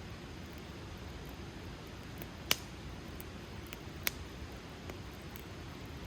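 Wood campfire crackling: a steady soft hiss with a few sharp pops, the loudest about two and a half seconds in and another about four seconds in.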